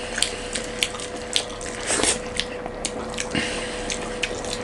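Close-miked eating sounds: chewing and mouth clicks, a quick scatter of short, sharp smacks, over a faint steady hum.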